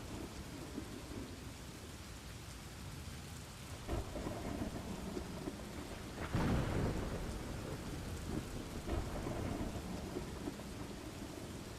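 Steady rain with low rolling thunder; a louder thunder rumble swells about six seconds in and dies away over a second or so.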